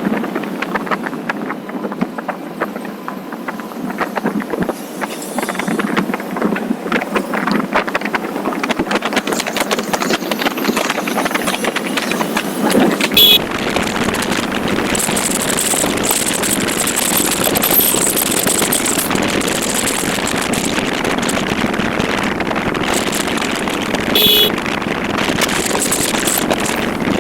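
Motorcycle on the move: engine running under steady wind and road noise, a little fuller about halfway through, with a couple of brief sharp sounds.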